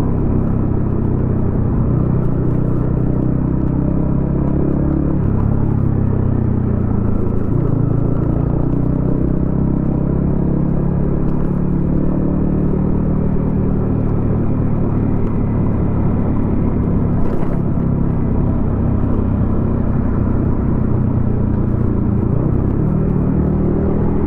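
Yamaha XSR155's single-cylinder engine running through a DIY exhaust while riding in traffic, a steady low engine note that shifts in pitch a couple of times, about five and seven seconds in.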